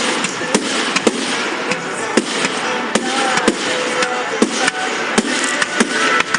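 Fireworks going off in a display: a string of sharp bangs, roughly two a second at uneven spacing, over continuous crackling.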